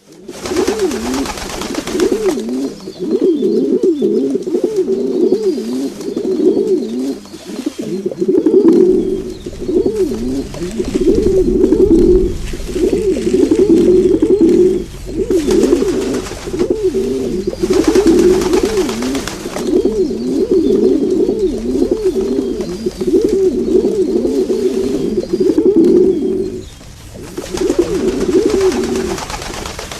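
A flock of birds calling together in a dense, continuous chorus of low, wavering calls, with a few stretches of hiss over them.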